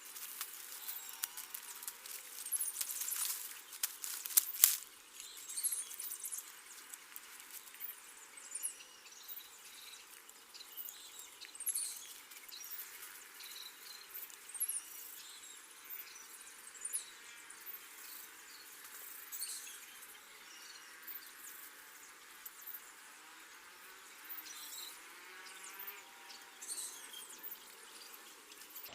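Outdoor ambience of small birds chirping in short high calls scattered throughout, over a steady insect hiss. A few clicks and rustles come in the first few seconds, with one sharp knock about four and a half seconds in.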